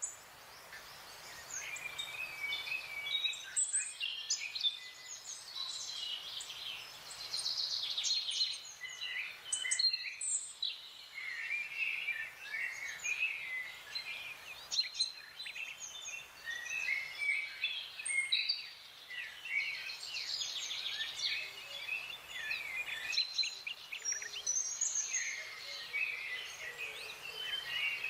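Wild songbirds chirping and singing in a busy chorus of short, high warbling notes and whistles, over a faint outdoor hiss; the mix of calls changes abruptly several times.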